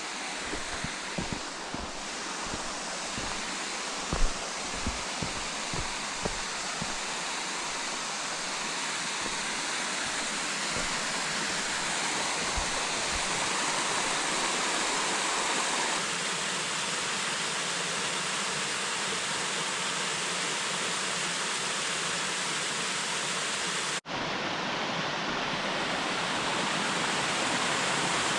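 Cascading mountain waterfall rushing steadily, slowly growing louder. A few low thuds come in the first several seconds, and the sound briefly cuts out once near the end.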